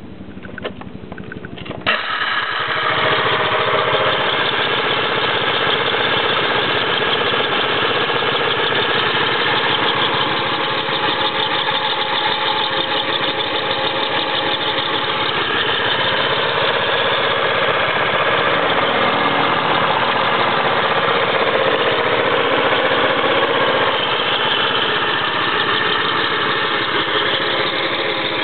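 A machine with a failed bearing starts about two seconds in and runs steadily with a loud, dense noise carrying several steady tones: the abnormal noise of the faulty bearing.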